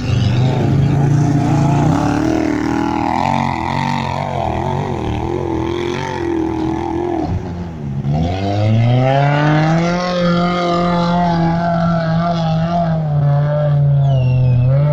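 Off-road racing car engine running hard under load on a dirt course. About eight seconds in, the revs drop sharply, then climb back up over a couple of seconds and hold at a high, steady pitch.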